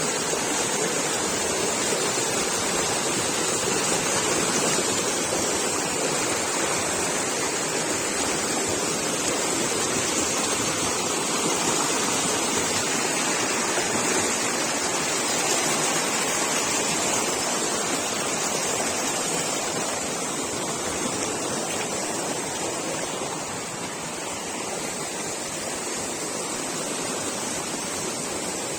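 Steady rushing water, a dense even noise, easing slightly about three-quarters of the way through.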